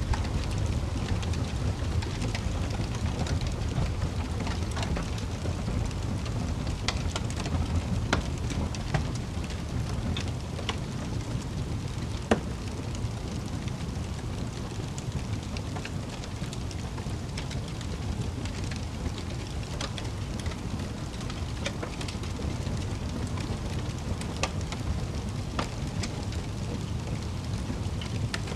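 Wood fire crackling in a fireplace: a steady low rumble of flames with scattered sharp pops and snaps, the loudest about twelve seconds in.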